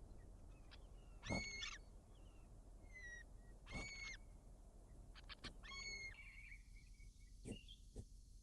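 African fish eagle calling: three short, high calls a little over two seconds apart, with fainter short chirps between them.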